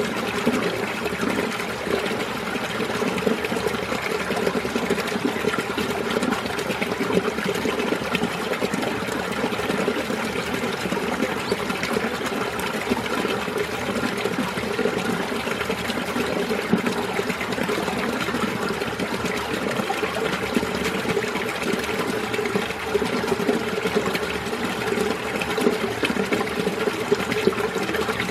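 Mountain stream water flowing and splashing steadily over rocks among ice, a continuous burbling rush.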